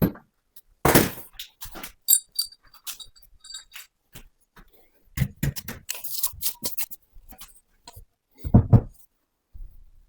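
Irregular knocks and handling sounds, with a loud thump about a second in and another near the end, and a run of light metallic clinks a couple of seconds in.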